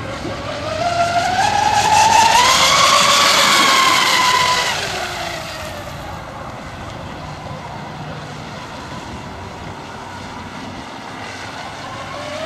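High-pitched whine of an RC racing catamaran's twin Castle 1520 brushless motors on a high-speed pass: the whine climbs in pitch and loudness, peaks, then drops in pitch and fades as the boat runs away. A second rising whine begins near the end as it comes by again.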